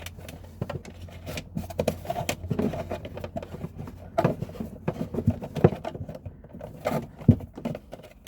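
Electrical wire being fished through a hole by hand: irregular rustling, scraping and knocking as the cable is pulled through.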